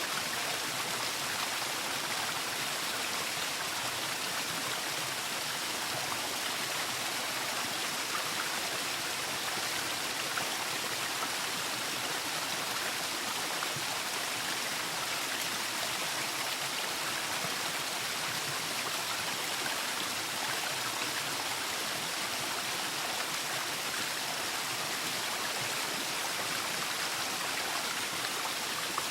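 Waterfall: falling water rushing in a steady, even hiss, with no change in level.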